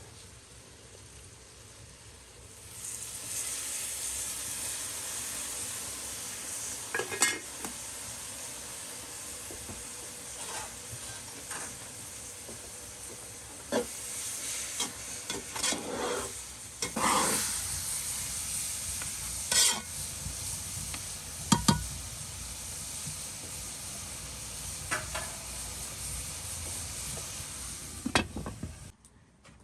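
Food sizzling in a hot pan, with a utensil stirring and scraping against the pan and now and then knocking on it. The sizzle starts about three seconds in and cuts off abruptly just before the end.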